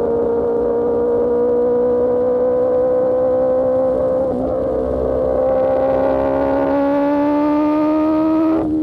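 Superbike engine through an Austin Racing GP1R exhaust, pulling steadily with its pitch slowly rising as it accelerates. There is a brief dip about four seconds in and a short break near the end.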